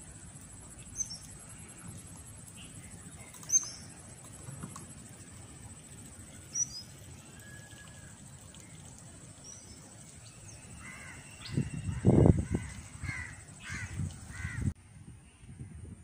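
Wild birds calling in the open: a few short, high chirps spaced seconds apart, then a louder cluster of harsh calls about twelve seconds in, under a steady high-pitched tone. The sound cuts off abruptly near the end.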